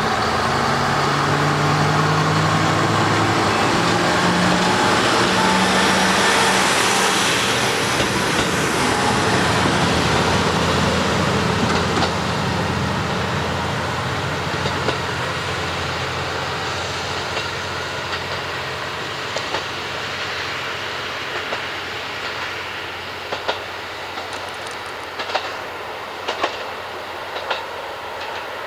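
Diesel railcar pulling away: its engine revs up in steps over the first several seconds, then the sound slowly fades as it recedes. Wheels clack over rail joints, the clicks growing more frequent in the second half.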